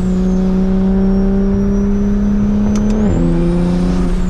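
Straight-piped, single-turbo BMW N54 inline-six in a 335is pulling in gear with a steady note and a high whine climbing above it. About three seconds in there is a quick click and a dual-clutch upshift: the revs drop a step and the whine falls away.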